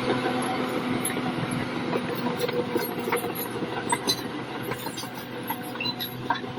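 Bulldozer's diesel engine running steadily under load, with a constant hum and many irregular metallic clanks and clicks from its crawler tracks.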